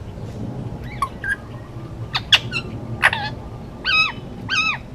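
Male Indian ringneck parakeet calling. It gives a few short chirps, then two sharp shrieks in the middle, then two drawn-out calls near the end that rise and fall in pitch.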